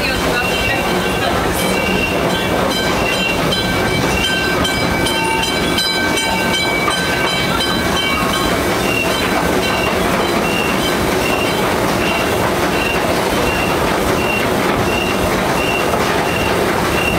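Small theme-park train rolling along its track, heard from an open-sided passenger carriage: a steady rumble with high wheel squeals over the first half, and a short high squeak repeating about one and a half times a second.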